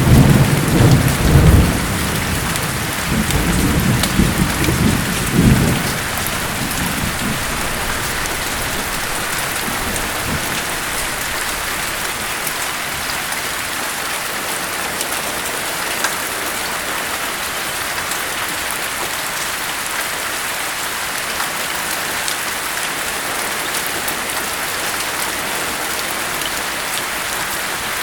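Steady heavy rain with a roll of thunder at the start: a low rumble that swells several times over the first six seconds and dies away, leaving only the even hiss of rain.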